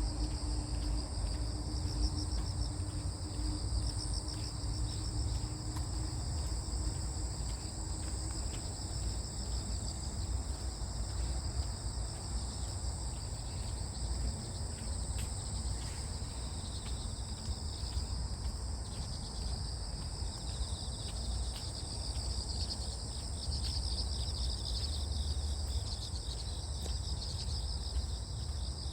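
A chorus of crickets and other grass insects chirping steadily, their trilling in two high-pitched layers, over a low steady rumble.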